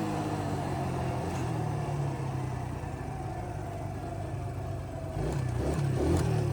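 Small single-cylinder engines of an ATV and a minibike running, the engine note falling as the throttle eases, then rising and getting louder about five seconds in.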